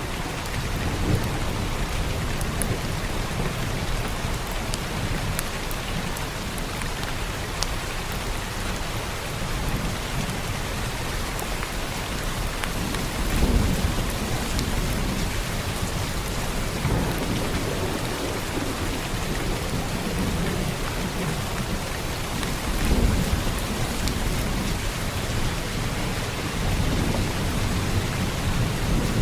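Heavy rain pouring steadily, with low thunder rumbling in the background that swells about halfway through and again about three-quarters of the way in.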